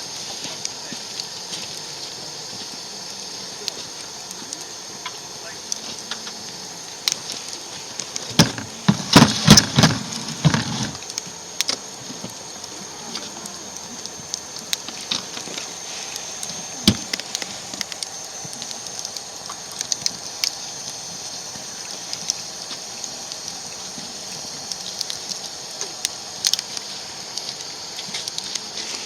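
Wood fire burning in a small camp fire stove, a steady hiss with scattered crackles and pops. A burst of loud knocks and clatter comes about nine seconds in.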